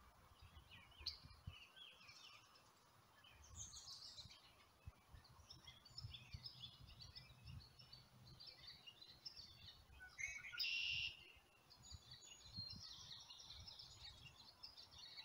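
Faint birdsong: small birds chirping and twittering on and off, with one louder call a little past two-thirds of the way through, over a faint low rumble.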